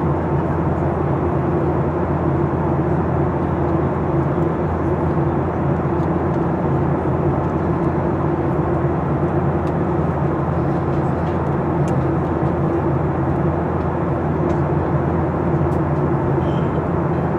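Cabin noise inside a Boeing 737-800 airliner: a steady drone of its CFM56 jet engines and rushing airflow, with a constant low hum and no change in pitch or level.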